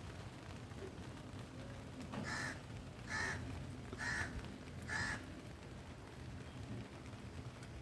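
A bird calling four times, evenly spaced about a second apart, over a steady background hiss.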